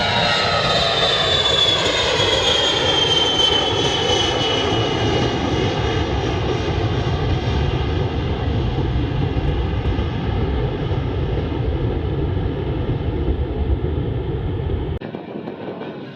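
Aircraft engines running loud and steady, with a whine that glides slowly down in pitch over a deep rumble. The low rumble drops off abruptly near the end.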